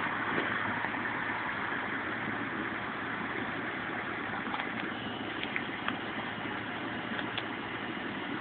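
Ford Crown Victoria Police Interceptor's 4.6-litre V8 idling steadily, with a few faint ticks in the second half.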